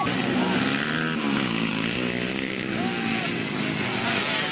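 Motocross bike engines revving, their pitch rising and falling.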